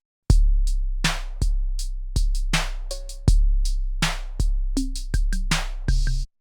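Drum-machine beat played back from an Akai MPC sampler: deep kick drums with long bass tails, sharp hi-hats and snares, and a short pitched blip about three seconds in. It starts a third of a second in and cuts off suddenly near the end.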